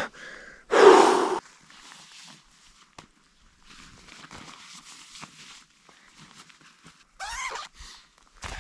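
Clothing rustling as a jacket is taken off and another pulled on: a loud fabric swish about a second in, then softer scattered rustling with a single sharp click around three seconds, and a short falling sweep near the end.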